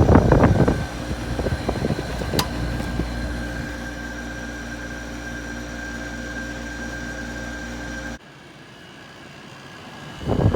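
LG 12,000 BTU air conditioner running steadily, a hum with a faint high whine over it. About eight seconds in the sound drops away abruptly to a much quieter background.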